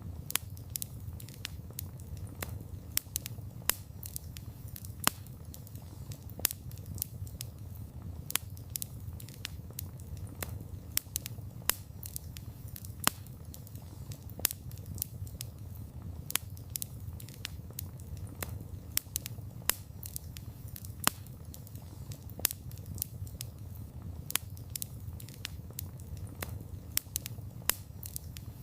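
Wood fire burning, with a steady low rumble of flames and frequent sharp, irregular crackles and pops from the burning wood.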